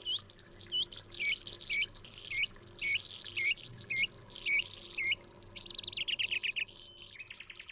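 A bird calling: a short dipping chirp repeated about twice a second. Then, a little over halfway, it gives a quick run of notes falling in pitch, followed by fast short notes near the end.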